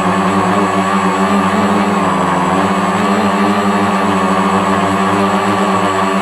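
Scratch-built FPV quadcopter's motors and propellers running at flight throttle, a steady buzzing hum whose pitch dips slightly about two seconds in as the throttle shifts.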